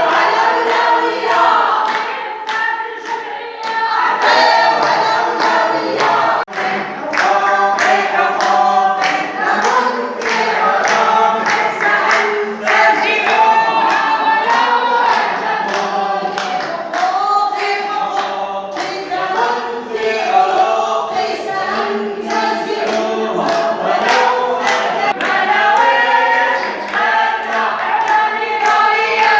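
Crowd of protesters chanting slogans in unison, many voices together, over a steady beat of hand clapping.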